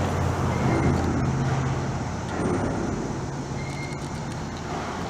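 Low, steady hum of heavy machinery running in a rail yard, like a large engine idling, easing off a little after about two seconds.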